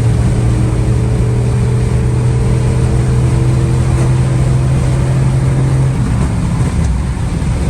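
Chevrolet Silverado's 5.3 L V8 with long tube headers and a full 3-inch MagnaFlow exhaust, driving at a steady engine speed. About six seconds in the steady tone breaks up as the throttle eases off.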